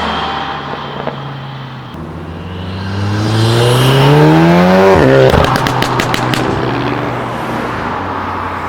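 A tuned car's engine revving up hard as it accelerates away, pitch climbing steadily for about three seconds. The revs drop abruptly at the gear change, followed by a quick series of sharp pops, then the engine settles and fades.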